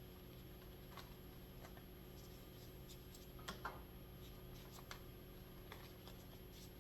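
Faint handling noise from plastic nasal cannula tubing: a few light clicks and rustles, the most distinct about halfway through, over a low steady room hum.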